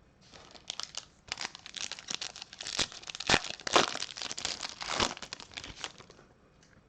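A foil trading-card pack being torn open and its wrapper crinkled by hand, a run of uneven crackles that dies away near the end.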